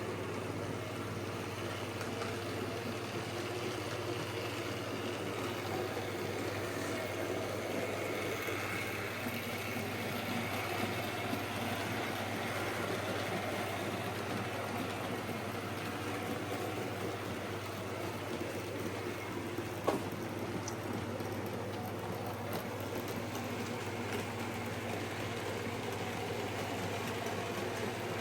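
Model locomotive, an old Hornby King Arthur class with its X04 motor, running steadily round the layout: a constant motor hum with the running noise of wheels on track, and one sharp click about 20 seconds in.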